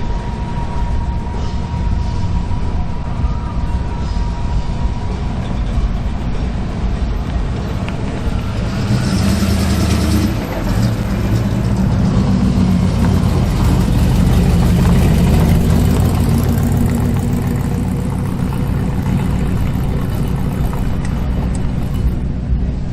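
Car engine running with a steady low rumble, growing louder from about nine seconds in and easing off in the last several seconds.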